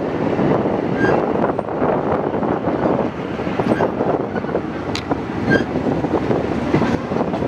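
Thai passenger train running along the track, heard from an open window of the moving carriage: a steady rumble of wheels on the rails with scattered clicks, and wind on the microphone.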